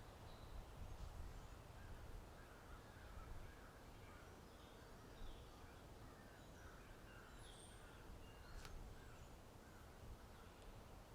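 Faint outdoor ambience of birds calling in a series of short calls, over a low wind rumble, with one sharp click about nine seconds in.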